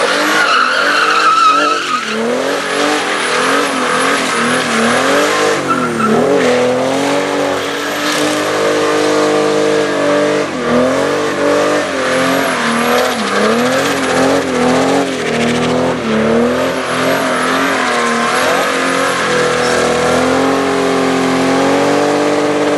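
Mercedes W123 with an OM606 straight-six turbo diesel doing a burnout: the engine is revved hard over and over, rising and falling, held at high revs for a few seconds twice, while the spinning tyre squeals.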